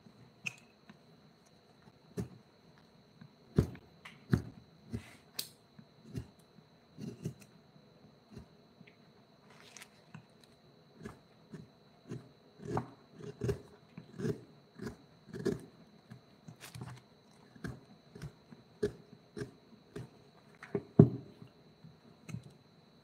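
Irregular knocks and taps, bunched at times to about two a second, the loudest near the end, over a faint steady high-pitched tone.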